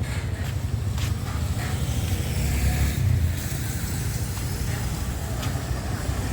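Busy city street traffic, a steady low rumble of passing vehicles, with a few faint clicks.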